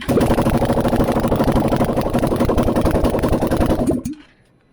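Can-Am Outlander 850's Rotax V-twin running with its exhaust headers removed, firing straight out of the cylinder ports: loud, with rapid even pulses, then shut off about four seconds in.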